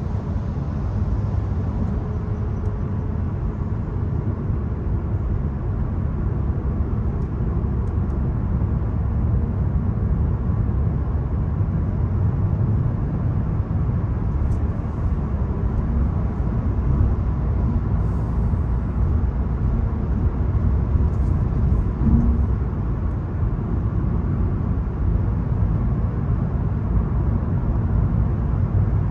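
Volkswagen Golf 1.0 TSI three-cylinder turbo petrol car driving, its engine and tyre noise making a steady low rumble.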